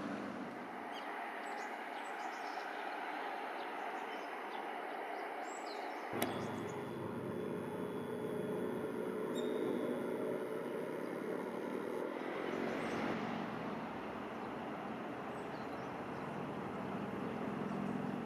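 Outdoor ambience: a steady background hiss with small birds chirping now and then. The background changes abruptly twice, about six and twelve seconds in.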